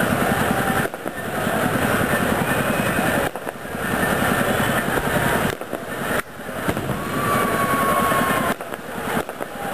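Fireworks: a dense, continuous rapid crackle of exploding firecrackers, breaking off and starting again abruptly several times.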